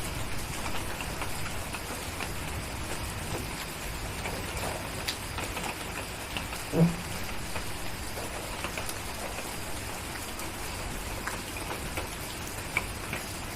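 Steady rain falling, with scattered small crackles and pops of a wood fire. About halfway through comes one louder, low thump.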